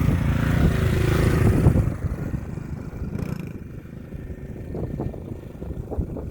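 Dirt bike engine running loud and close for about two seconds, then dropping suddenly to a lower, rougher sound for the rest.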